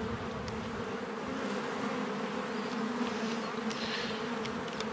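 A honeybee colony buzzing steadily around an opened hive during an inspection: an even, continuous hum, with a couple of faint clicks.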